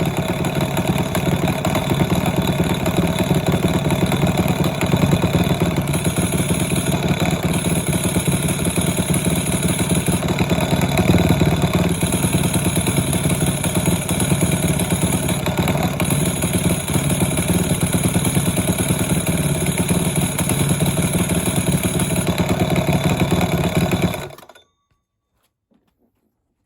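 Honda Dax 4mini's small single-cylinder four-stroke engine, rebuilt with a Takegawa dry clutch and five-speed gearbox, running steadily at idle after its first start. It cuts out suddenly about 24 seconds in.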